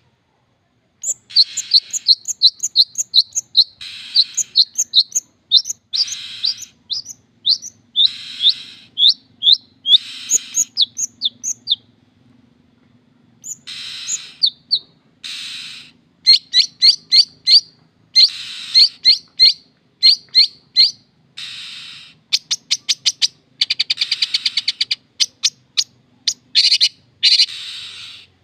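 Long-tailed shrike (cendet) singing: bursts of rapid, sharp, high notes mixed with harsh rasping calls, with a fast trill about two-thirds of the way through.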